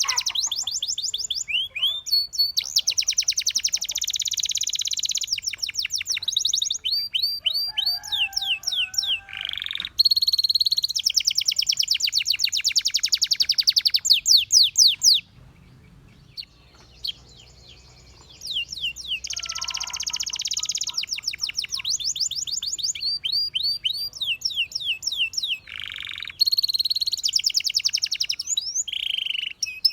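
Domestic canary singing: long rolling trills of fast, rapidly repeated high notes, phrase after phrase, with a pause of about three seconds midway.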